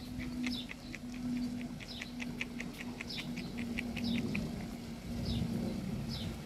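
Birds calling: a fast run of about twenty short high chirps, roughly six a second, from about a second in until past four seconds, with single high calls sliding downward before and after it. A steady low hum sits underneath.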